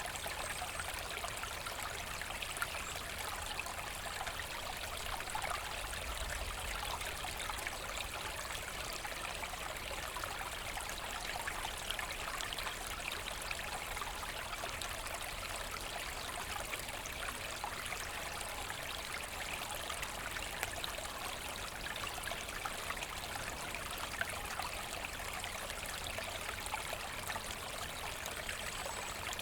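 A forest brook running steadily, with a continuous babble and trickle of water.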